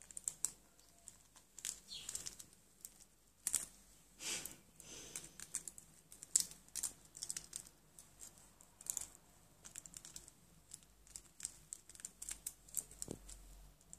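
Irregular clicking and tapping of a pen being handled by a grey parrot's beak, in quick uneven runs of clicks like typing.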